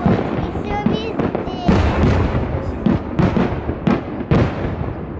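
Fireworks display: several aerial shells bursting with sharp booms about a second apart over continuous crackling, with a brief high wavering whistle about a second in.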